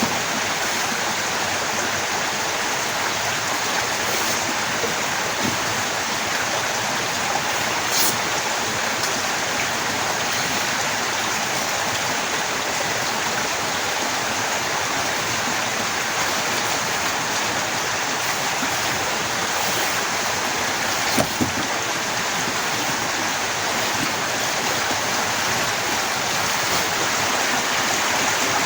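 Heavy rain falling steadily, with a sharp click about eight seconds in and a couple of soft knocks about two-thirds of the way through.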